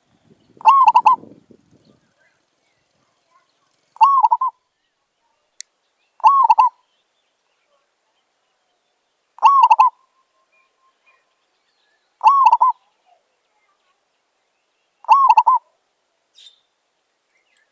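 Zebra dove cooing: six short phrases of quick, arched coos, one every two to three seconds.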